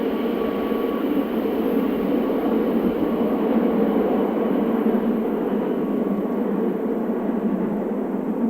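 Train running on the Semmering mountain railway: a steady rumbling of wheels on track.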